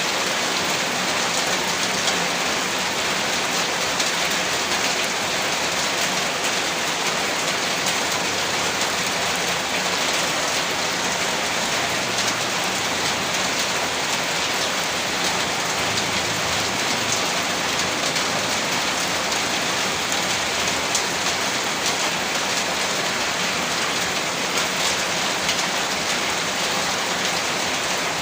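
Heavy rain falling steadily on a rooftop, a dense even hiss thick with fine drop ticks that stays unchanged throughout.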